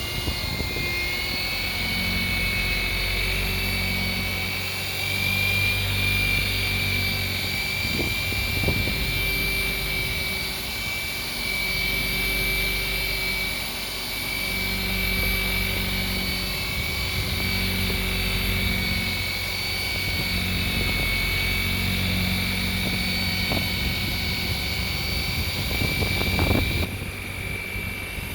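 Rotary buffer running with its pad pressed on a boat's gelcoat, compounding off oxidation: a steady high motor whine over a lower rumble that swells and eases as the pad is worked across the hull. Near the end there is a brief knock.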